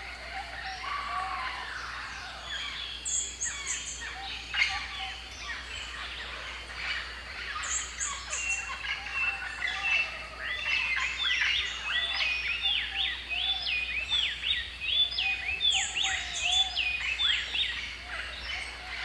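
Several birds calling and chirping at once, with short high-pitched notes here and there and a fast run of repeated calls through the second half.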